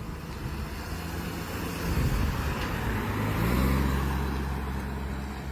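A car engine running with a low hum over a steady rushing noise. The engine note rises and grows louder twice, about two seconds in and again just before four seconds.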